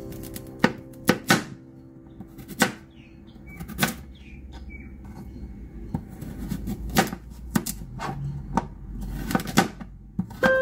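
Chef's knife chopping carrots on a plastic cutting board: single sharp knife strikes at irregular intervals, mostly a second or more apart.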